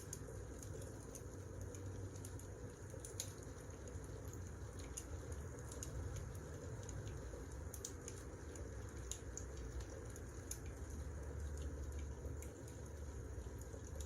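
Wood fire crackling: scattered sharp pops and snaps at irregular intervals over a low steady rumble.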